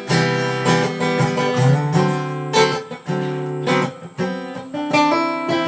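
Acoustic guitar strumming chords in a steady rhythm, each chord left to ring: an instrumental passage of a song, with no singing.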